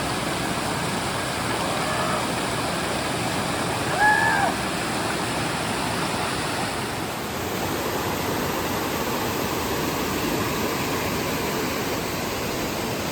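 Steady rush of running water from a rain-swollen stream or small waterfall. About four seconds in there is a brief, high, voice-like call.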